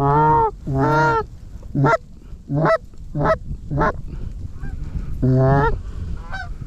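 Goose honking, close and loud: two long honks, then four short clucks about two-thirds of a second apart, then another long honk about five seconds in. A steady low wind rumble on the microphone runs underneath.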